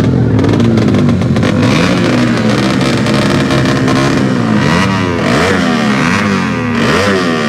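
Racing motorcycle engines revving hard, their pitch repeatedly sweeping up and dropping back. Several engines overlap in the second half.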